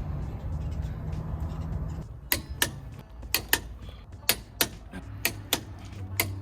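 Sharp clicks coming in pairs about once a second, starting about two seconds in, over a steady low hum.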